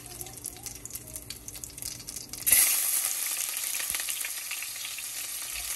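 Cumin seeds crackling faintly in hot oil. About two and a half seconds in, a sudden loud sizzle starts as sliced onions fry in the oil, and it carries on steadily.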